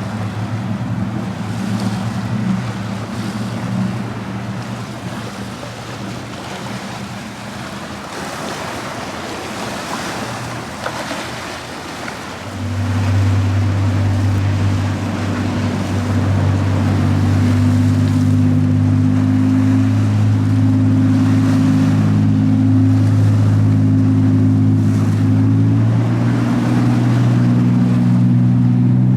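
Boat engines running over waves and wind noise on the microphone; about twelve seconds in a louder, deeper engine drone comes in and holds steady.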